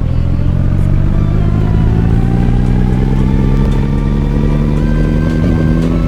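A motor running with a steady, pitched drone that slowly rises in pitch, like a machine speeding up.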